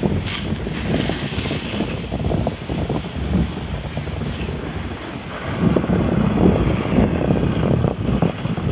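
Wind buffeting the microphone, a low rumbling rush that gets louder about five and a half seconds in.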